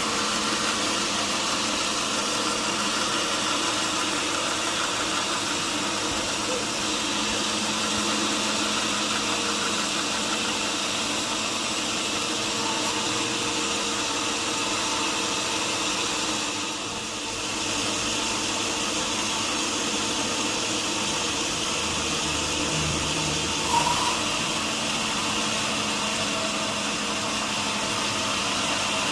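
Sawmill machinery running steadily with a continuous even mechanical noise and faint humming tones. It dips briefly about halfway through, and there is a short sharp sound near the end.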